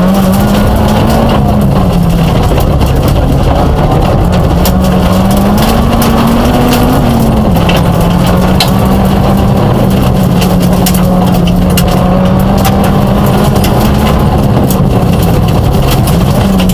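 Peugeot 106 rally car's engine running hard, heard from inside the cabin, its note rising and falling with throttle and gear changes, with a clear drop about seven and a half seconds in. Scattered sharp ticks sound over it.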